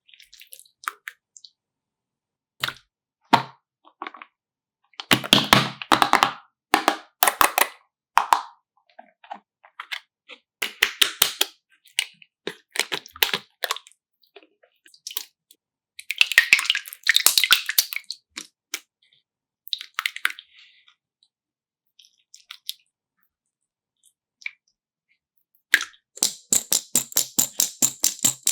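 Bursts of rapid, crisp clicks and crackles, a second or two at a time with quiet gaps between, turning into a dense, even run of clicks near the end.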